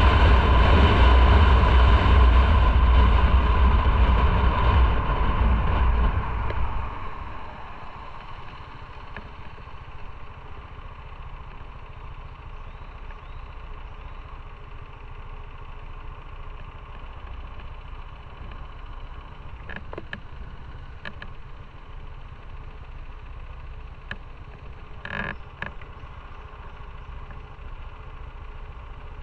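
Motorcycle riding with loud rushing wind and engine noise that drops off about six and a half seconds in as the bike comes to a stop. After that the engine idles steadily, with a few short clicks near the end.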